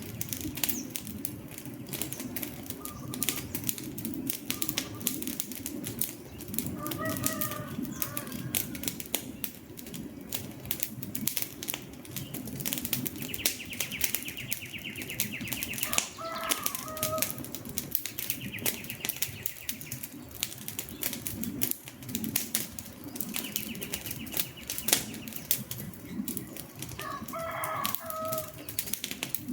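Campfire crackling, with frequent sharp pops of burning wood over a low steady rush of flame. Birds call now and then behind it, with a short high trill heard three times.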